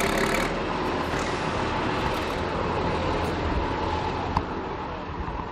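Heavy rally truck's engine running, a steady vehicle noise that eases off after about four seconds, with a single sharp knock at that point.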